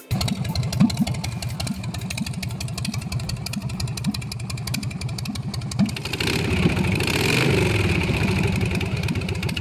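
Harley-Davidson Sportster 1200's air-cooled V-twin running through a custom stainless pie-cut exhaust, at a lumpy idle, then revved and louder for a couple of seconds from about six seconds in before settling back.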